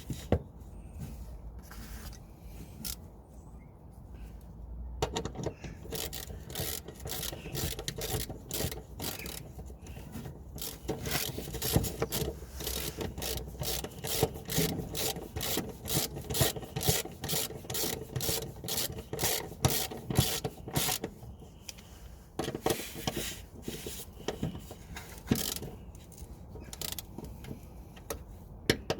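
Rapid scraping and clicking, roughly three or four strokes a second, from about five seconds in until a little past twenty, from hand work tightening a clamp on the engine's intake pipework; sparser handling noises come before and after.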